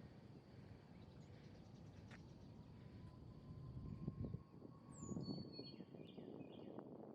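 Quiet outdoor ambience: a bird gives a few short chirps about five seconds in, over low rumbling noise.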